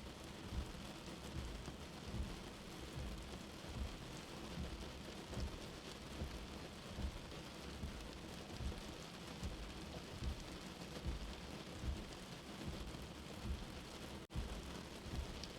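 Steady rain hissing, with a soft low heartbeat thumping underneath about once a second. The sound cuts out for a split second once near the end.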